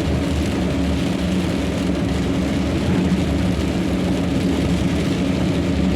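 Steady engine drone and tyre noise inside a car's cabin while it cruises at highway speed, with rain on the car and wet road adding a constant hiss.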